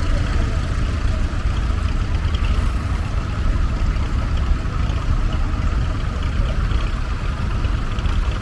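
Vintage farm tractor engines running steadily at low speed, a continuous low rumble.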